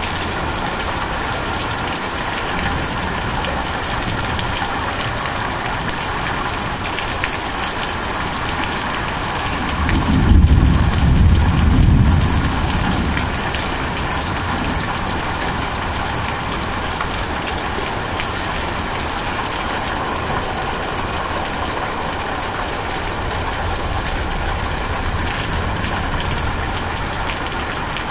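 Steady rain falling through a thunderstorm, with a rumble of thunder that swells about ten seconds in and fades over a few seconds.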